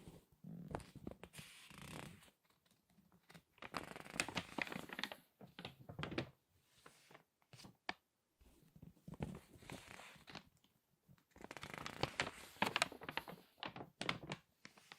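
Crinkly magazine pages being handled, turned and squeezed: several bursts of paper crackling with sharp snaps, separated by short pauses.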